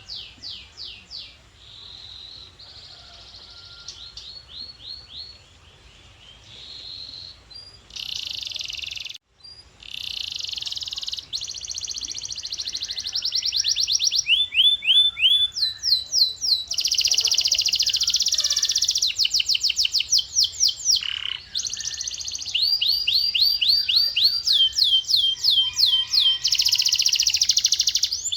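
Male domestic canary singing: one fast trill of repeated notes after another, each trill a new phrase, with a short break about a third of the way in and the song growing louder past the halfway point. A faint low hum runs underneath.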